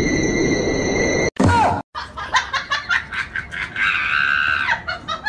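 A shrill screaming cry lasting about a second, set among short choppy sounds like laughter. Before it, a steady noisy sound cuts off abruptly a little over a second in.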